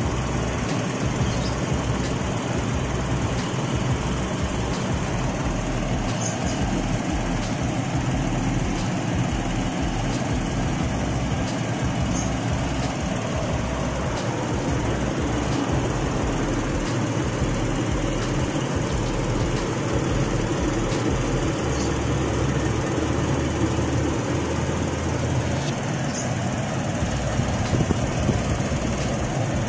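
The Toyota Kijang Kapsul EFI's 1.8-litre 7K-E four-cylinder petrol engine running steadily at an even speed, with fresh oil, a new oil filter and a new air filter fitted.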